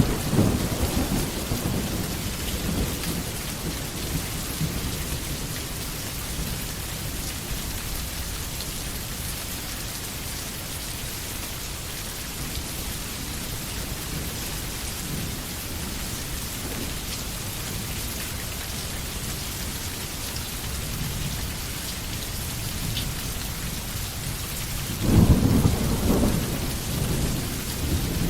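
Steady rain falling, with thunder: a low rumble dying away in the first couple of seconds, and a louder rolling rumble breaking about 25 seconds in and fading near the end.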